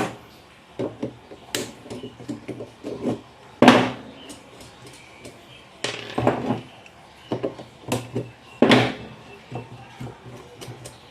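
Irregular metal clinks and knocks of hand tools and nuts as the long screws of a domestic regenerative (Tullu) pump motor are undone and the nuts set down, with a sharper knock every couple of seconds.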